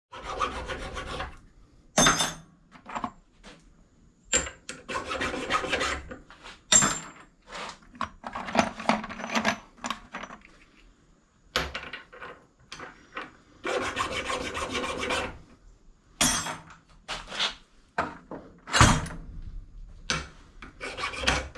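Scrap metal being handled and sorted: irregular scraping and rubbing of metal pieces, with several sharp knocks and clanks.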